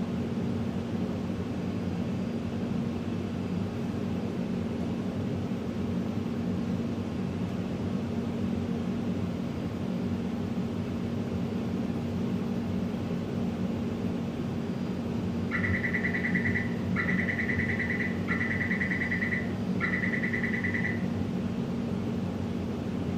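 Inside a Taipei Metro train car: a steady rumble with a low, even hum. About fifteen seconds in, a high electronic beeping sounds in four bursts over some five seconds, the train's door-closing warning.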